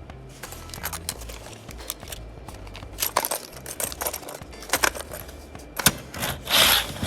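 Scattered clicks and light rattles of a small plastic model train car being handled, with a burst of rustling near the end.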